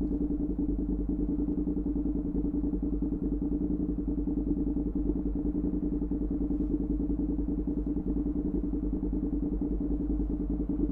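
Honda NC700X parallel-twin engine running steadily through a Danmoto XG-1 aftermarket exhaust, with an even, pulsing exhaust beat.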